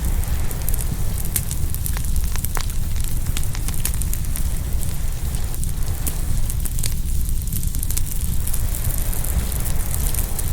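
Open wood fire crackling and popping, many sharp pops scattered through, over a steady low rumble.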